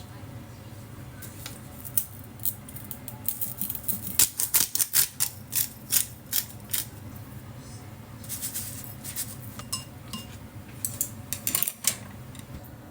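Dishes and cutlery being handled: a run of sharp clinks and clatters in quick clusters, busiest a few seconds in, with another flurry near the end.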